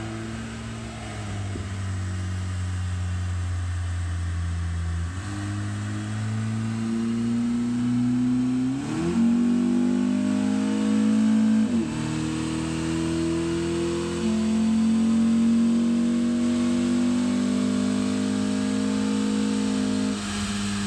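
Honda Civic's 1.8-litre R18 four-cylinder engine, with an aftermarket intake and exhaust and on the stock tune, running on a chassis dyno. It holds steady speeds, with sudden changes in pitch: a rise about nine seconds in, a drop about twelve seconds in, a step up about fourteen seconds in, and a drop near the end.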